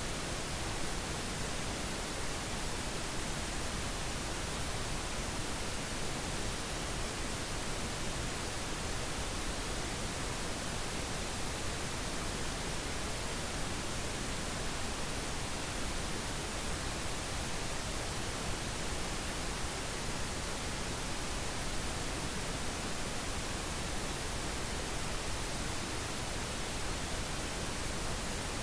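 Steady pink noise: an even, unchanging hiss spread across all pitches, with no events in it.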